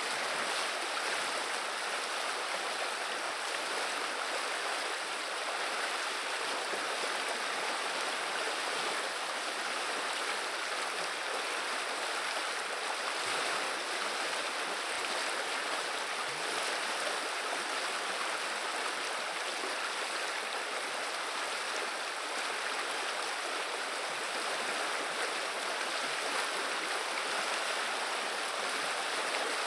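River water running and babbling in a steady, even rush.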